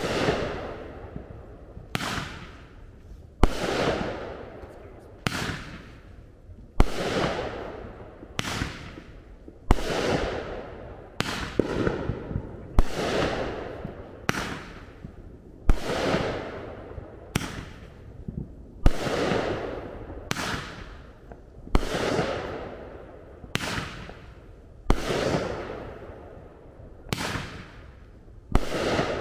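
A consumer firework cake firing shot after shot, a bang about every second and a half, each bang trailing off into a fading echo.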